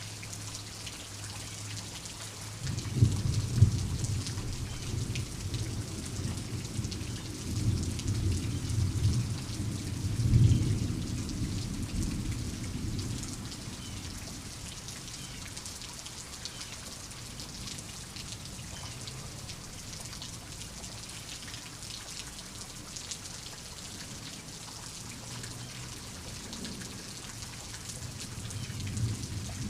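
Steady rain falling, with thunder: a rumble opens with two sharp cracks about three seconds in, swells twice more and fades away about halfway through, and another rumble builds near the end.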